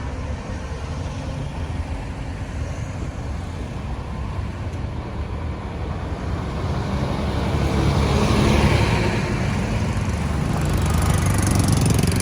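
Busy road traffic: a steady rumble of engines and tyres that swells about two-thirds of the way in as vehicles pass close, then swells again near the end.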